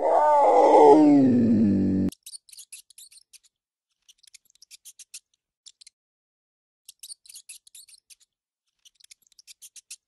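Cougar calling: a loud wavering cry, falling in pitch, about two seconds long. It stops abruptly and gives way to faint, quick high clicks in short runs, a hamster nibbling at a corn treat.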